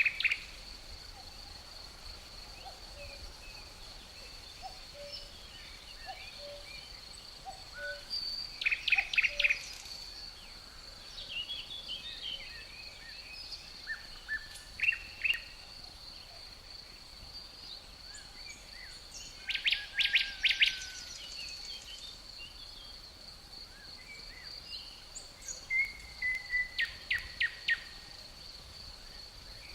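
Songbird singing short phrases of rapid high notes every five or six seconds, with scattered chirps between, over the continuous high trill of crickets.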